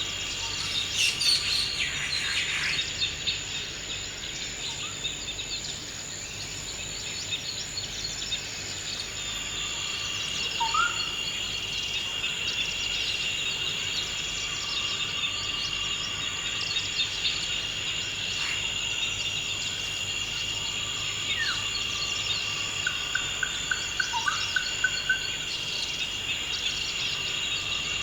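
Forest ambience dominated by a steady, high-pitched insect chorus, with scattered bird calls: a flurry of chirps near the start, a short call about a third of the way in, and a quick trill of evenly repeated notes near the end.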